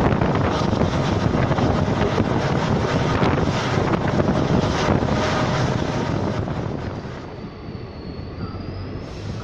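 Running noise of a moving passenger train heard from onboard, mixed with wind buffeting the microphone. It grows quieter about seven seconds in, and a faint high-pitched squeal rises near the end.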